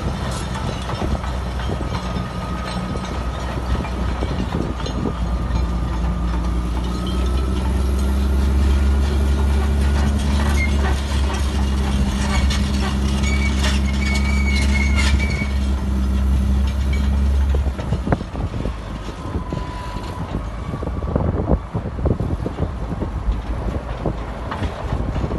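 Heavy diesel earthmoving machine running steadily, with metallic clanks, knocks and brief squeals. The engine drone drops away about two-thirds through, leaving clattering and knocks.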